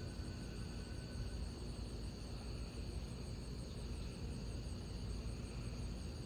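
Crickets chirping in a steady, unbroken high chorus over a constant low background noise, with no thunderclap.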